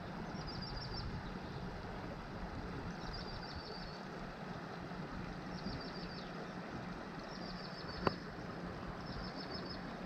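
A bird repeating a short, rapid run of high notes five times, over a steady rushing of creek water, with one sharp click about eight seconds in.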